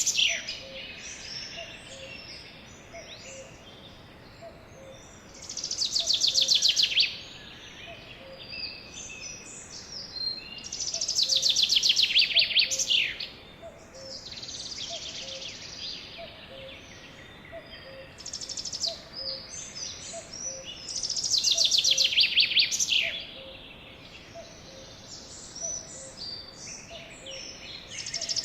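Songbirds singing: one bird repeats a loud, fast trilled phrase of about two seconds every five to ten seconds, with softer chirps between, and a faint low note repeating about once a second underneath.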